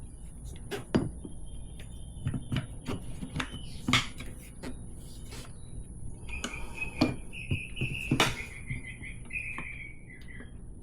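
Tire irons clicking and knocking against the spoked wheel's rim and the tire while the old dual-sport tire's bead is pried off by hand. A long, high, wavering squeak joins in past the middle and falls away near the end.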